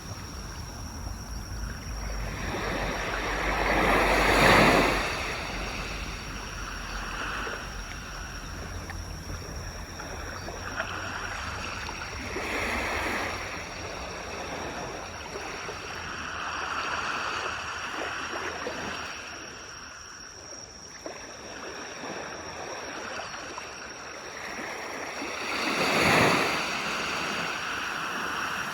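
Ocean waves breaking and washing up a beach, rising and falling in separate surges. The loudest waves break about four seconds in and again near the end.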